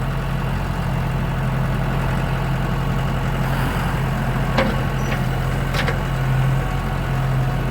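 Vehicle engine idling steadily, with two sharp clicks or knocks about four and a half and six seconds in.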